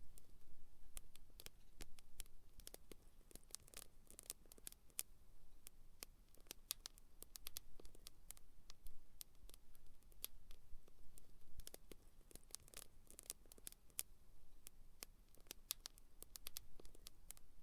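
Small wood campfire crackling: irregular sharp pops and snaps, some close together in quick clusters, over a faint low rumble.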